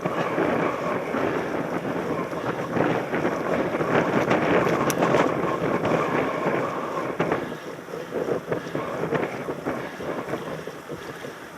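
Wind rushing over a helmet-mounted camera's microphone while a mountain bike rides over rough ground, with frequent small rattles and knocks. It eases off somewhat over the last few seconds.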